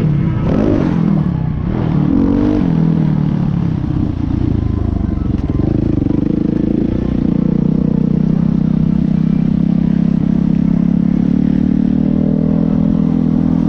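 Motocross bike engine revving, its pitch rising and falling several times over the first few seconds, then held at a steady high pitch for the last several seconds.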